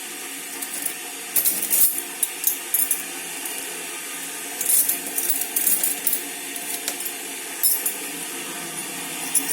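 Clinks and clatters of tea things being handled and set out, in three short flurries, over the steady hiss of an electric kettle heating water.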